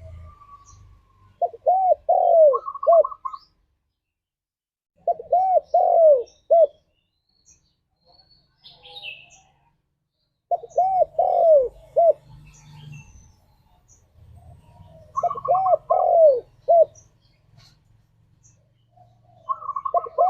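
Spotted dove cooing: a short phrase of several rising-and-falling coo notes repeated five times, one every four to five seconds, the last beginning near the end.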